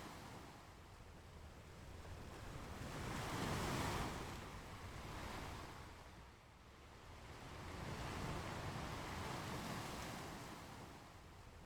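Sea waves breaking and washing onto a beach in slow surges that swell and fade, loudest about four seconds in and again around eight seconds.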